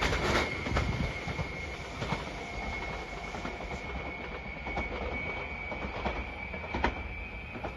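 Electric limited express train moving away after passing the level crossing, the rumble fading and a few sharp wheel clicks over the rail joints, loudest near the start and once near the end. A steady high tone sounds throughout.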